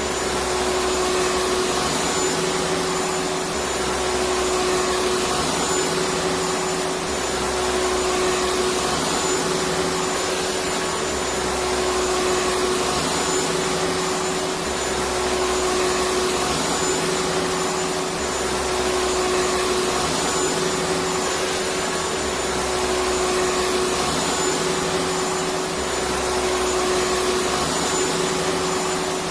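Electric vacuum cleaner running continuously, a steady motor hum and airflow noise with a slight swell and dip every few seconds.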